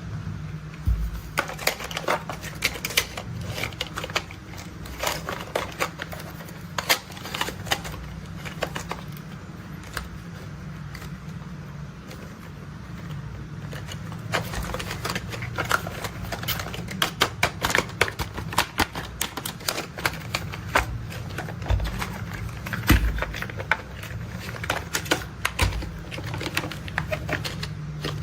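Toy construction vehicles being tapped and handled: a continuous run of irregular small clicks and taps, thicker in the second half, over a low steady hum.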